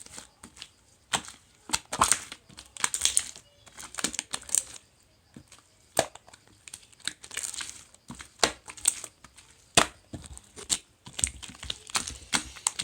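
Irregular crinkling and crackling, short sharp rustles coming in uneven clusters with brief pauses between them.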